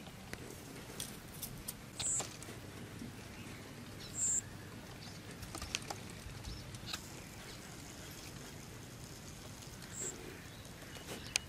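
Quiet outdoor ambience, a steady low background with a few faint clicks, broken by three short, high bird chirps about two, four and ten seconds in.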